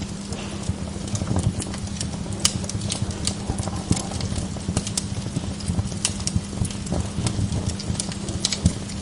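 Wood log fire crackling in a fireplace: irregular sharp pops and snaps of varying loudness, several a second, over a low steady rumble.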